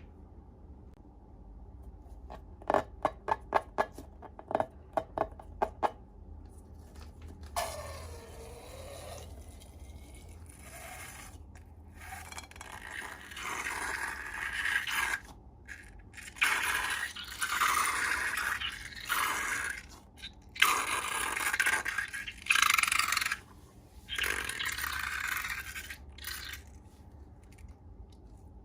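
Slime-making handling sounds: a quick run of sharp clicks, then repeated bursts of scraping, a second or two each, as the material is worked.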